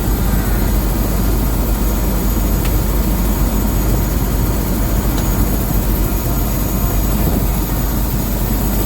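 Helicopter running, a loud steady drone of engine and rotor.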